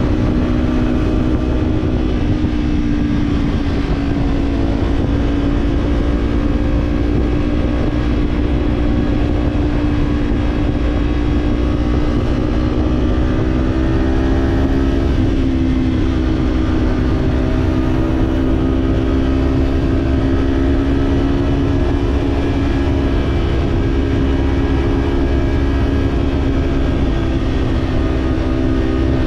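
Kawasaki parallel-twin motorcycle engine running at a steady cruise through an aftermarket slip-on exhaust, its pitch easing slightly a couple of times. A dense low rumble of wind and road noise runs beneath it.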